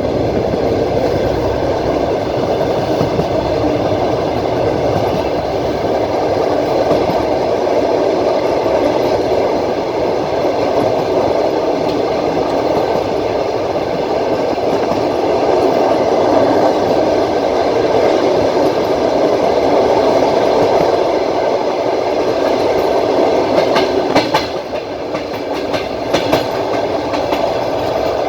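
Train wheels running on the rails, heard from inside a moving train: a steady rumble, with a short cluster of sharp clicks near the end.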